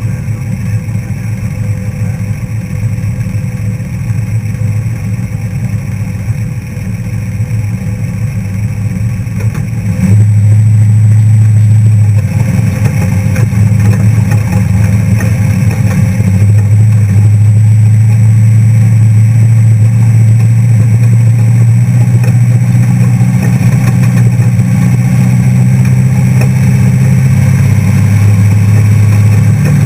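Off-road trophy truck engine running hard, a steady low drone that gets much louder about ten seconds in and holds there, stepping up in pitch near the end.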